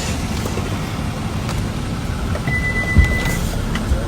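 Steady street and traffic noise with a low rumble. A brief high beep comes in about two and a half seconds in, and a dull thump sounds during it.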